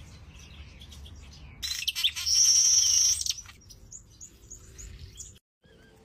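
Birds calling: a loud high-pitched call lasting about a second and a half, starting near two seconds in, followed by a run of short high chirps.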